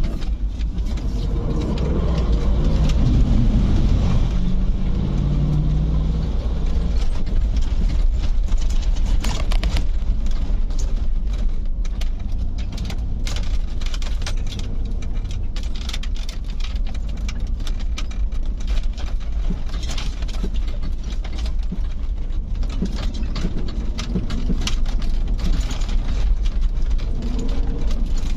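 Vehicle running: a steady low rumble of engine and road noise, with many short clicks and knocks, most of them in the second half.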